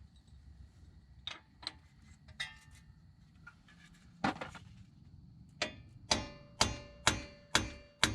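Hammer tapping a steel bearing driver to seat a new rear axle wheel bearing into a Ford 8.8 axle housing. A few scattered taps come first, then from about six seconds in steady, evenly spaced taps about two a second, each ringing briefly.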